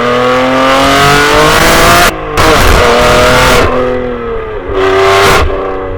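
BMW G87 M2's twin-turbo inline-six running hard with its exhaust valves open, so loud the recording clips. The engine pitch climbs for about two seconds, breaks sharply at a gear shift, and climbs again. A shorter loud burst comes about five seconds in, before it settles to a lower steady drone.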